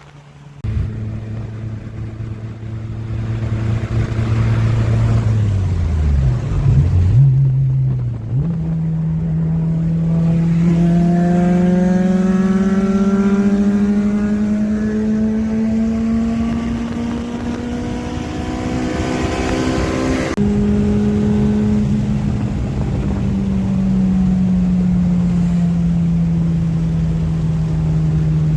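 Honda Civic's K-series four-cylinder engine under way. Its revs drop and come back about six to eight seconds in, then climb slowly and steadily for some twelve seconds, jump up suddenly about twenty seconds in, and sink gently from there.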